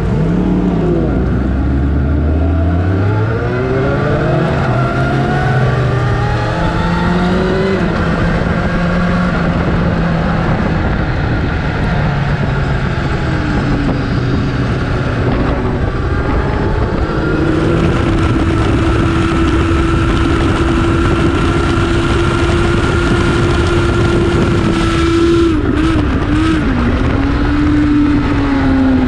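Inline-four superbike engine under hard acceleration, rising in pitch through several gear changes in the first few seconds, with heavy wind rush. Later it holds a steady high pitch for several seconds, then drops as the rider downshifts near the end.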